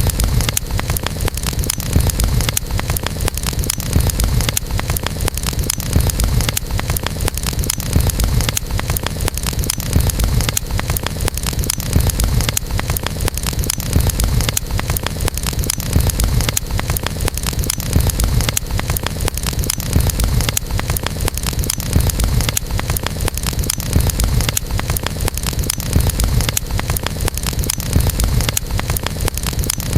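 Campfire burning: a low rumble of the flames with dense crackling of burning wood throughout, the rumble swelling about every two seconds.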